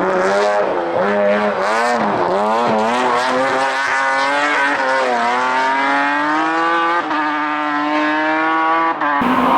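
Hill-climb race car engine pulling hard, its pitch falling and climbing again several times as the driver lifts, brakes and accelerates, with a sharp gear change about seven seconds in. Near the end it switches abruptly to a different engine note.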